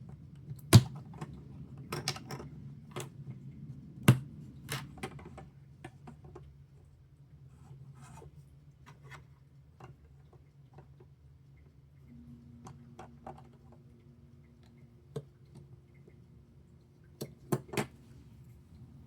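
Small plastic building bricks being handled and snapped together, giving sharp clicks and light taps at irregular intervals. The loudest click comes about a second in, and two more come close together near the end.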